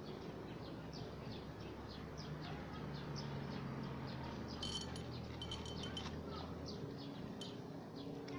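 Short, high, downward chirps of a bird repeat steadily throughout. About five seconds in there is a brief cluster of light metallic jingling like small bells, with one more ring a little later. A low hum runs through the middle.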